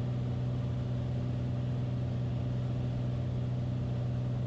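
Steady cabin drone of a Beechcraft Bonanza's piston engine and propeller on final approach, the prop set at 2500 rpm with the power partly reduced. It holds one even pitch.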